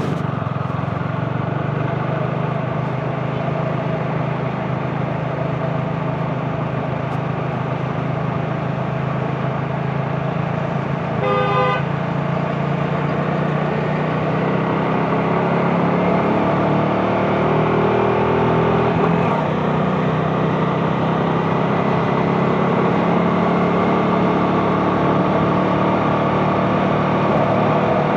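CFMoto 250NK's single-cylinder engine running steadily while riding, its pitch creeping up a little in the second half. A vehicle horn honks briefly about eleven seconds in.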